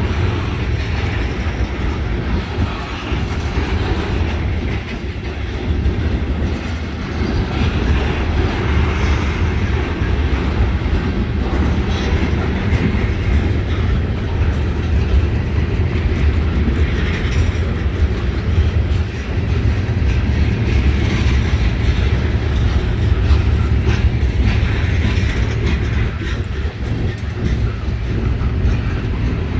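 CSX mixed freight train's cars rolling past: a steady, loud rumble of steel wheels on the rails.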